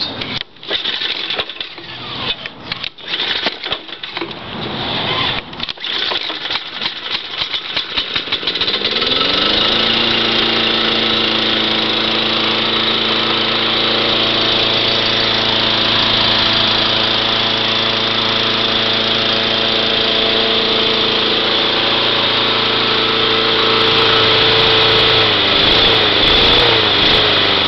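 Cold start of a Cub Cadet lawn tractor's Kawasaki overhead-valve engine, freshly cleaned of carbon: it turns over and sputters unevenly for about eight seconds, catches and revs up, then settles into steady running. Near the end the engine speed wavers up and down a few times.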